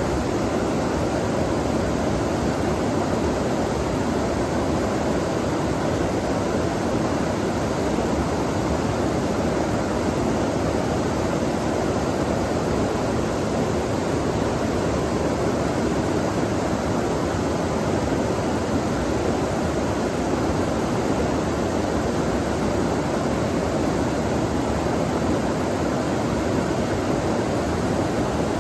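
Flowing water rushing steadily and fairly loudly, with no breaks or changes.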